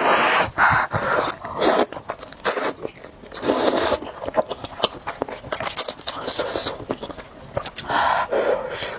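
Close-miked mukbang eating of spicy noodles: chewing and biting with many wet mouth clicks, and a few short noisy slurps, near the start and about three and a half seconds in.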